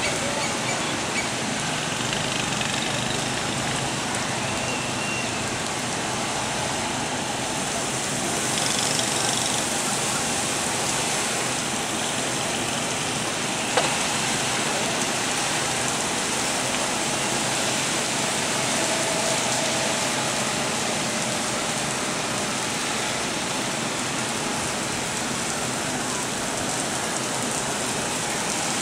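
Heavy rain falling steadily: an even, unbroken hiss, with a single sharp click about fourteen seconds in.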